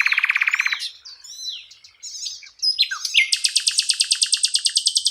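Sikatan londo flycatcher singing a varied song: a fast buzzy trill at the start, then a jumble of short whistled and down-slurred notes, and from about three seconds in a long, rapid, high trill.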